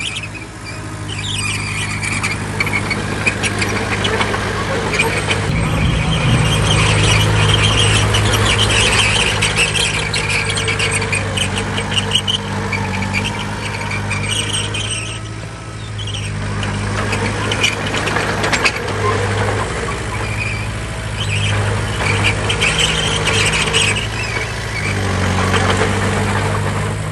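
Crawler bulldozer's diesel engine running under load, with its steel tracks squealing on and off throughout. The engine gets louder about five seconds in, eases briefly in the middle, then picks up again.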